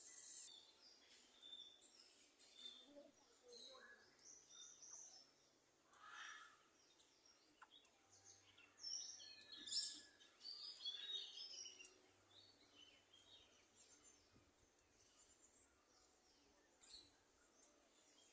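Faint parrot calls: many short, high chirps and squawks, with a busier, louder run of calls about halfway through.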